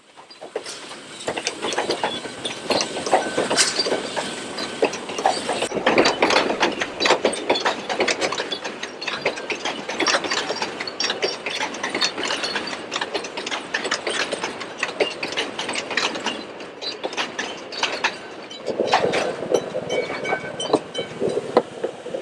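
Puffing Billy's narrow-gauge heritage steam train moving close by, its wheels and carriages clattering with many quick knocks and clanks. A thin squeal sounds briefly about three seconds in.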